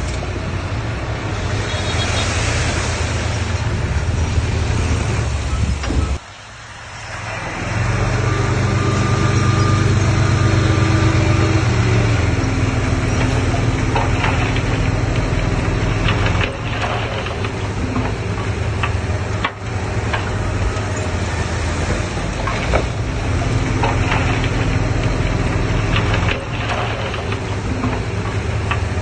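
Heavy diesel engines of earthmoving machinery (dump trucks and a bulldozer) running steadily, with scattered metallic clanks. The sound drops out briefly about six seconds in, then returns louder, with an engine held at a steady pitch under load for a few seconds before it eases back.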